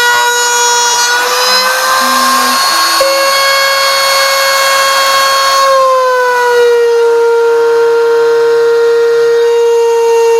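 CNC router spindle running steadily at a high whining pitch as it cuts, the pitch rising slightly about a second in and dropping a little just past the middle. Short, lower hums from the machine's axis motors come and go beneath it.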